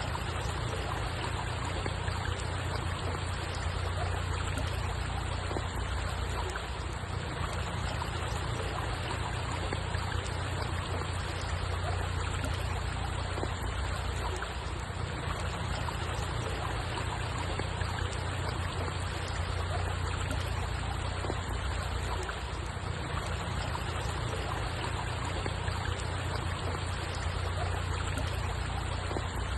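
Steady running water, a continuous trickle and rush with a deep low rumble underneath, unchanging throughout.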